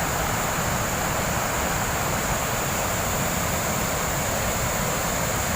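Reservoir overflow water pouring down a spillway into a creek as a waterfall: a steady, thunderously loud rushing of water.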